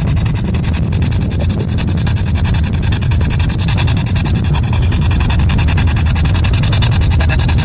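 Spirit box (a radio scanning rapidly through stations): loud, choppy static with fast, regular clicks as it sweeps, over the low rumble of a car driving on a back road.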